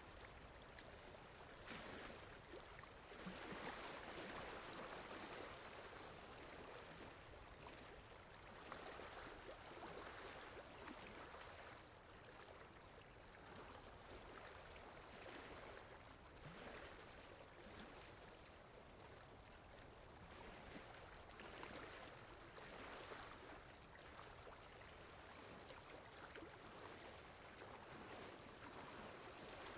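Faint steady rainfall, an even hiss that swells and eases every few seconds.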